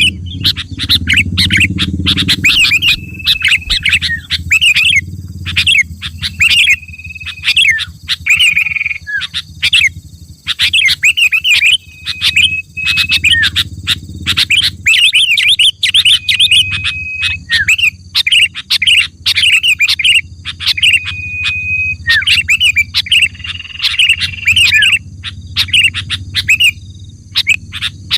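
Sooty-headed bulbul (kutilang) singing, with quick runs of bubbly chirps broken by short held whistled notes, phrase after phrase. A low rumble runs underneath.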